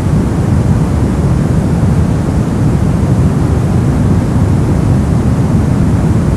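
Steady brown noise: a constant deep rumbling hiss with most of its energy in the low end, unchanging throughout.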